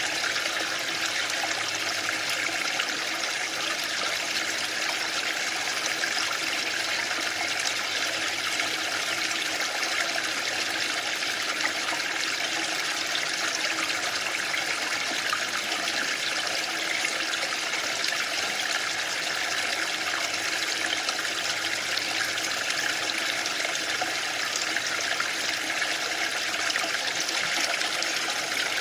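Waterfall: water falling with a steady, unbroken rush that does not change.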